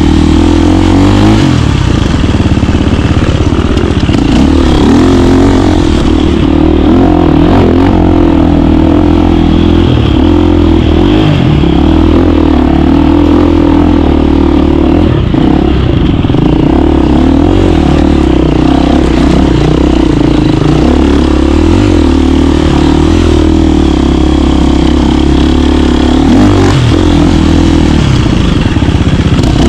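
KTM 350 dirt bike's single-cylinder four-stroke engine running loud and continuous, its pitch rising and falling with the throttle.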